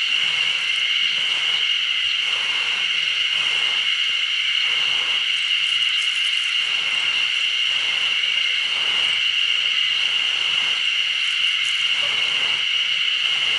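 Steady high-pitched insect chorus, with a soft rhythmic rubbing about once a second underneath.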